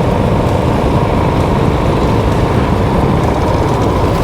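Motorcycle being ridden: steady, loud engine and wind noise.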